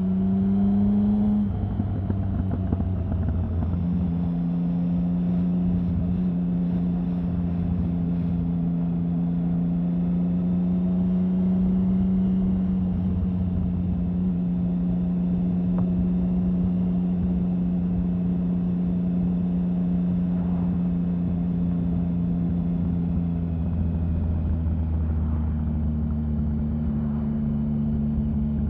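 Triumph Sprint 1050 motorcycle's three-cylinder engine running. Its pitch steps down in the first few seconds, then holds steady.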